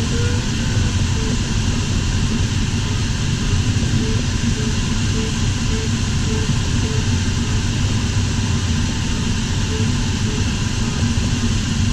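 Steady airflow noise in an LS4 glider's cockpit, with an audio variometer sounding short beeps at one pitch at uneven intervals.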